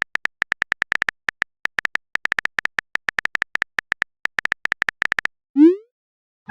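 Smartphone keyboard typing sound effect: a fast, uneven run of short clicks that stops about five seconds in, followed by a short rising swoosh like a message being sent.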